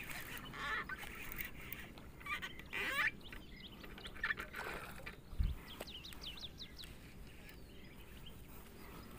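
Birds calling in short, quick chirps and squawks on and off, with a soft low thump about five and a half seconds in.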